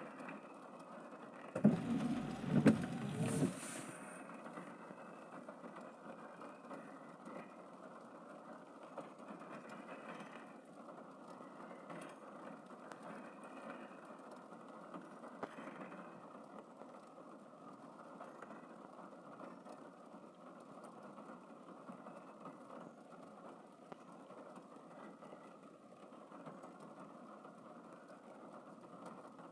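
Steady rain falling, heard as an even rushing noise, with a brief louder pitched sound about two seconds in.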